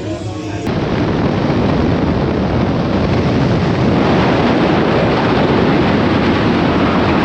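Loud, steady rush of wind buffeting the microphone on a moving motorcycle, cutting in suddenly under a second in as music stops.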